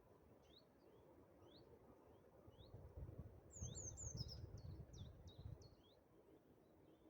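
Faint wild birds chirping: short rising chirps repeated about twice a second, with a brief flurry of higher, falling notes around the middle. A low rumble runs under the middle few seconds.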